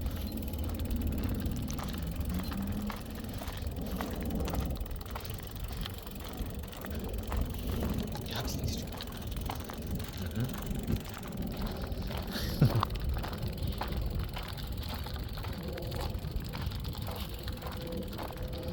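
Riding a bicycle along a path: steady low rumble of tyres and wind, with scattered clicks and rattles and one brief louder knock about two-thirds of the way through.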